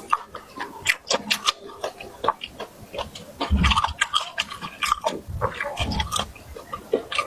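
Close-up chewing and lip-smacking of someone eating, a rapid irregular run of wet clicks and smacks, with brief low murmuring sounds a few times.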